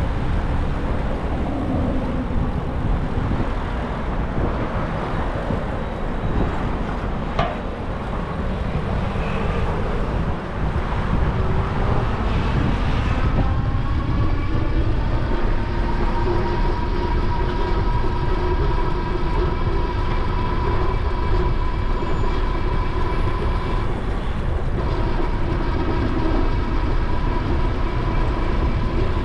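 Electric bike motor whining as it rises in pitch, then holding a steady tone, cutting out briefly near the end before coming back, over a heavy rumble of wind buffeting the microphone at riding speed.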